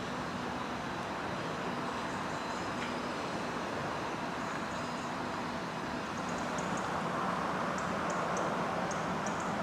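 Steady running noise of a train, growing a little louder about seven seconds in, with short high chirps or squeaks in the second half.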